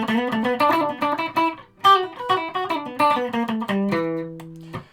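Electric guitar on a multi-pickup Stratocaster, with the bridge pickup wired in series with the middle-position pickup, playing a quick picked riff of single notes. About four seconds in it rings one held note, which is cut off abruptly near the end.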